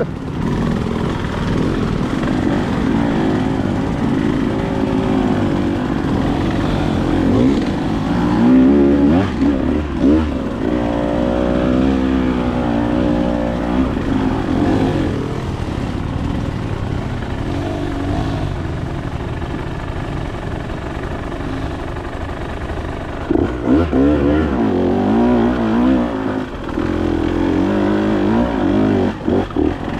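Dirt bike engine running while riding, its revs rising and falling with the throttle. The revving is busiest about a third of the way in and again near the end.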